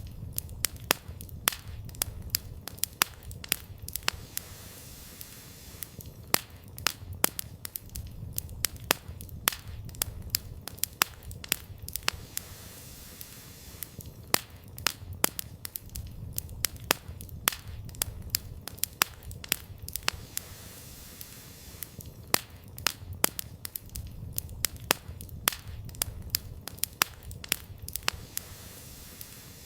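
Wood campfire crackling, with many sharp, irregular pops and snaps from the burning firewood over a low, steady rumble.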